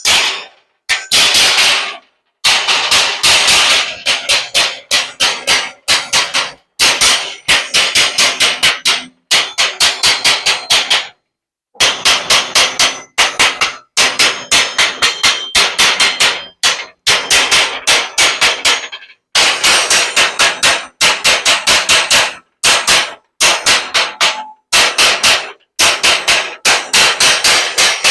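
Hammer striking metal in quick runs of blows, about five or six a second, with short pauses between runs and a slight metallic ring.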